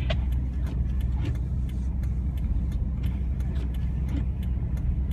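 Car driving in a snowstorm: a steady low rumble of road and engine noise, with frequent faint, sharp clicks.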